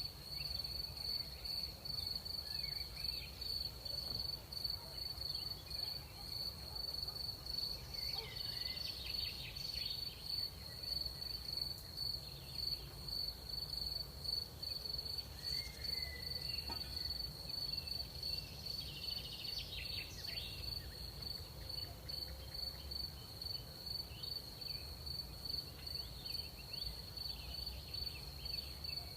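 Crickets trilling at night, one continuous high-pitched pulsing trill, over a low steady rumble of night air, with a few fainter scattered chirps.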